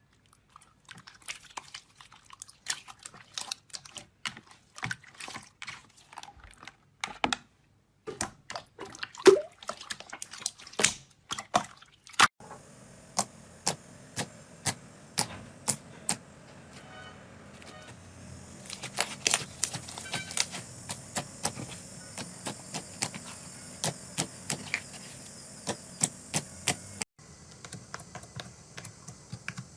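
Slime being squished and poked by hand, giving a run of sharp, irregular clicks and pops with a soft wet hiss underneath. The sound changes abruptly a few times.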